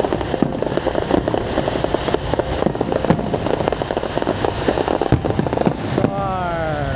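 Fireworks display going off: a dense, continuous run of sharp crackles and pops.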